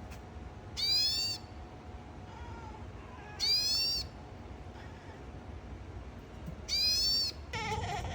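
A cat giving short, high-pitched calls that fall in pitch, three times about three seconds apart, then a lower meow near the end.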